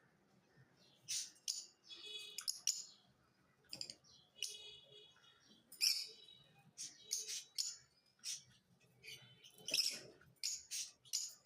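Lovebirds chirping: short, sharp, shrill calls in irregular bursts, several quickly one after another, with brief pauses between.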